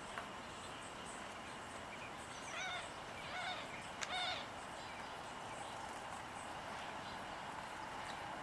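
A bird calling three times, about a second apart, over steady outdoor background noise, with a single sharp click near the last call.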